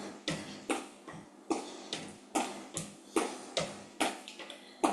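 Running shoes tapping quickly and evenly on a chair top and stepping on the floor, about two to three knocks a second, as fast alternating foot taps.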